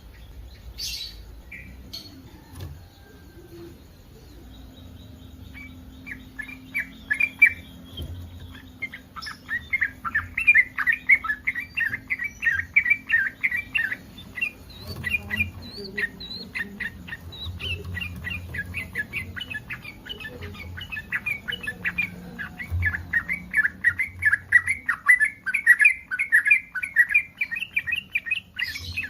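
Yellow-vented bulbul in breeding condition calling: fast runs of short chattering notes, several a second, starting a few seconds in and going on with a brief lull partway through. This is the excited call used to draw other bulbuls into answering.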